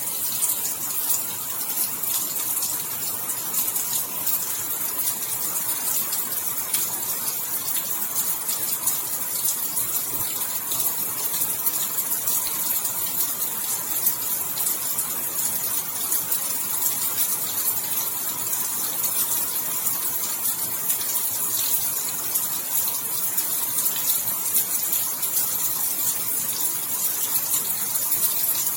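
Steady rainfall, a dense, even hiss of many fine drops without pause.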